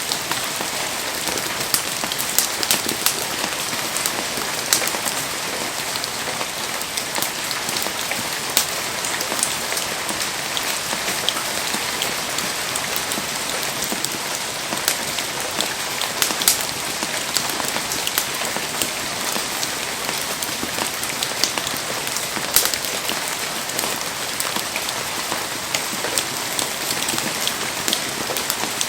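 Heavy rain falling steadily, a dense even hiss with many sharp, scattered drop taps.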